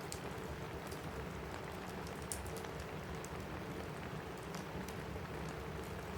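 Steady rain on a roof, mixed with a crackling fireplace fire that gives scattered sharp pops.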